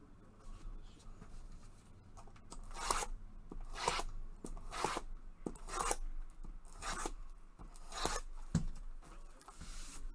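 Trading-card packaging and cards being handled: a run of short papery rustles or tears, about one a second, with a longer rustle near the end.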